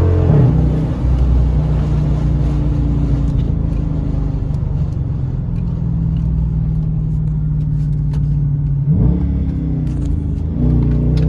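Dodge Charger with its stock muffler and resonator still fitted, driving: the engine holds a steady drone, its pitch dips just after the start and climbs again about nine seconds in as it accelerates.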